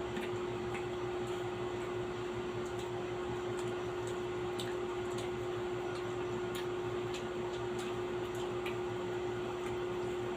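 A steady electrical or mechanical hum, with faint, scattered small clicks of eating and utensils over it.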